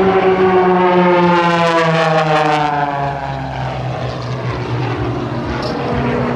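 Piston-engined aerobatic propeller plane flying past, loud, its engine and propeller note dropping steadily in pitch as it passes and then holding at a lower tone.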